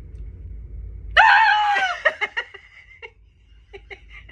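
A woman's loud, high-pitched squeal lasting under a second, made up as a vocal sound effect, followed by brief snickering laughter.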